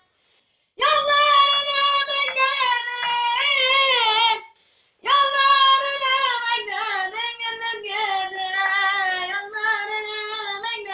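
A child singing unaccompanied in a high voice, in two phrases with a short pause between them. The notes bend and are ornamented in the Turkish style.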